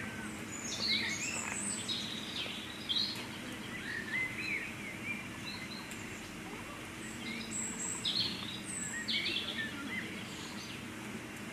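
Birds chirping in short, rising and falling calls, repeated on and off over steady background noise.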